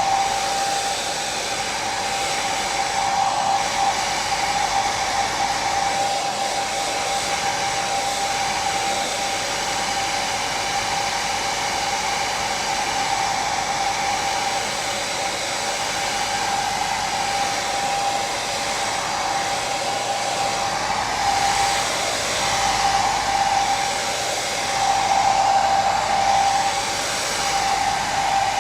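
Hair dryer running steadily: an even whooshing airflow with a steady motor whine. The whine swells slightly a few times near the end.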